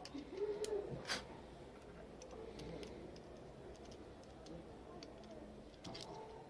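Scattered light clicks and taps of small hard parts being handled, the loudest about a second in, with faint voices in the background.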